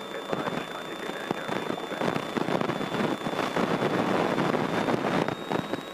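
Cockpit noise of a Grumman single-engine piston plane on short final in gusty air: engine, propeller and wind make a rough, crackly noise that grows a little louder about two seconds in, with a thin steady high whine over it.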